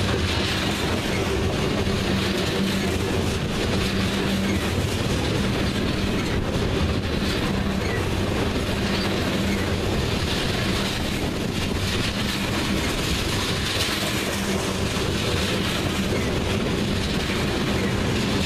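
Crude oil tank cars of a freight train rolling past at close range: a steady rumble of steel wheels on the rails with repeated clickety-clack and a low hum that comes and goes.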